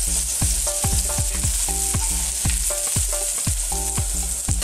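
Chopped ginger and garlic sizzling in hot oil in a stainless steel pot, stirred with a spatula. Under the sizzle runs a steady beat of low thumps about every half second, with short pitched notes.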